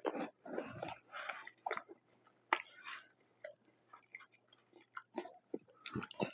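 Close-miked chewing of a Detroit-style pizza: irregular wet mouth sounds and crunchy bites, with clicks of the lips and teeth.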